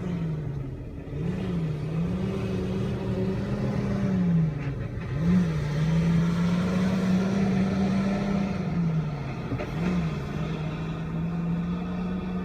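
A vehicle engine running, its pitch sinking slowly and then jumping back up several times.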